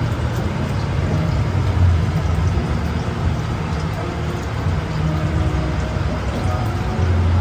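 A steady low mechanical rumble under a hiss.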